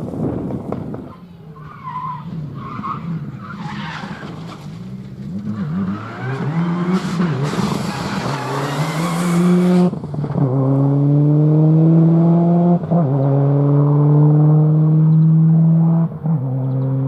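Four-wheel-drive rally car sliding through a corner with a loud hiss of tyres scrabbling on the surface, then its engine pulling hard at full throttle, the pitch climbing steadily and dropping with two quick upshifts.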